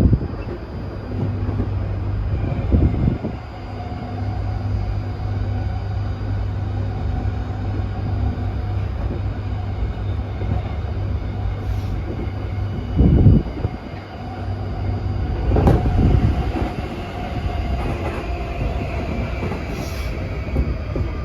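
Tokyu 2020 series electric train running at speed, heard from inside the car: a steady rumble of wheels on rail with faint steady motor tones above it. Heavy thuds come about 3, 13 and 16 seconds in.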